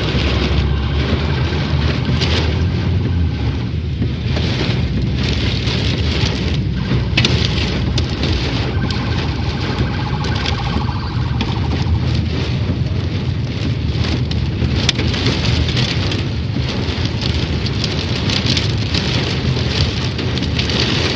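Heavy rain pouring down and pattering on hard surfaces, a dense steady hiss packed with many sharp taps, under a steady low rumble.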